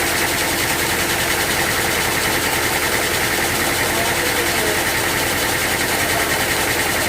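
Sawmill machinery running steadily, a continuous mechanical drone with a constant hum and no breaks or changes.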